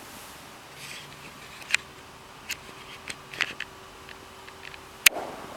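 Quiet room tone with a faint steady hum and a handful of short, sharp clicks and taps, the sharpest about five seconds in.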